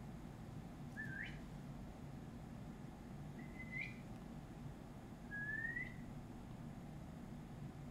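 Three short whistled notes, each sliding upward in pitch, spaced a couple of seconds apart over a faint low hum.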